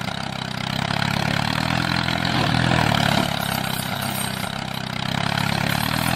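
Mini tractor's small engine running steadily, its level swelling and easing gently every couple of seconds.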